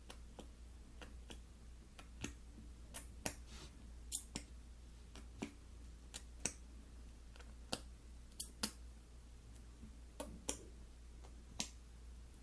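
Slime being pressed and stretched by hand, giving off crisp, irregular clicks and pops, one or two a second, some louder than others.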